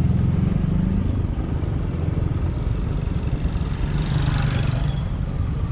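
Vehicle engine running while driving along. The engine note is strong in the first second, eases off, and picks up again about four seconds in, over road and wind noise.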